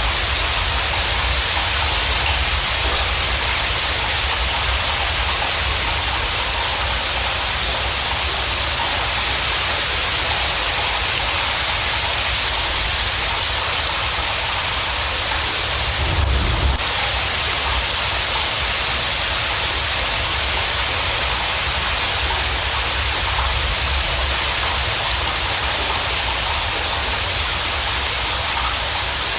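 Steady rain falling, an even hiss of drops, with one brief low thump about sixteen seconds in.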